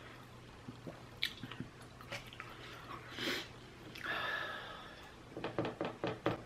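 Close-up eating sounds of a person chewing sushi: soft wet clicks of the mouth, a couple of audible breaths through the nose about three and four seconds in, then a quick run of sharp chewing smacks near the end.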